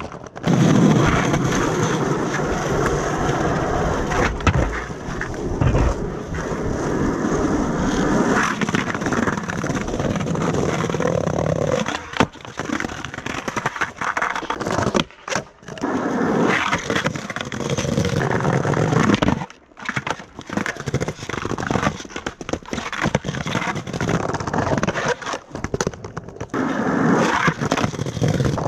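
Skateboard wheels rolling over pavement, with a few short breaks in the rolling and one sharp clack about twelve seconds in.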